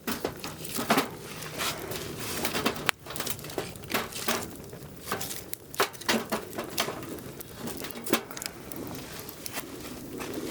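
Wood fire burning in a firewood grill, crackling with irregular sharp pops.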